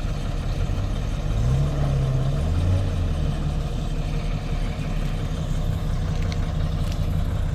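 Vehicle engine running with a steady low hum, its pitch rising and falling a couple of times in the first few seconds before settling.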